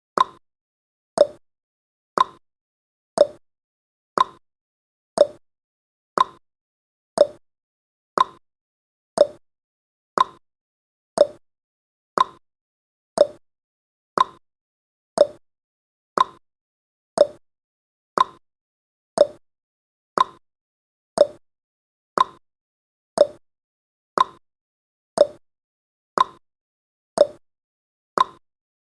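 Countdown timer tick sound effect: a short, sharp pop repeating once every second, evenly spaced.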